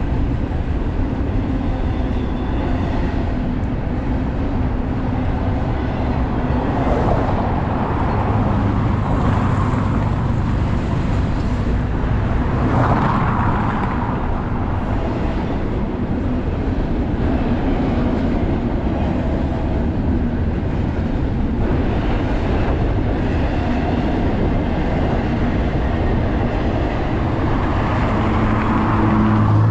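Intermodal freight train rolling past: a steady rumble of wheels on rail that swells a few times.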